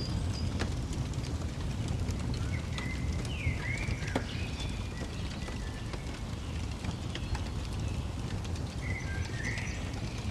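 Songbirds chirping over a crackling fire. Short chirp phrases come about three seconds in and again near the end, with scattered sharp crackles and a steady low rumble underneath.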